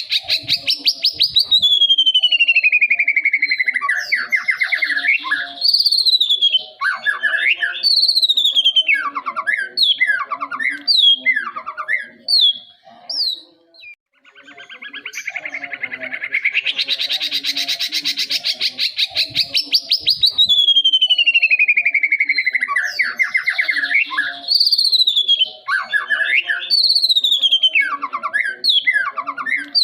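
Juvenile white-rumped shama (murai batu) singing: a fast buzzy trill that slides into a long falling whistle, followed by a run of short, sharp down-slurred notes. The whole phrase comes twice, the second starting about halfway through after a brief pause.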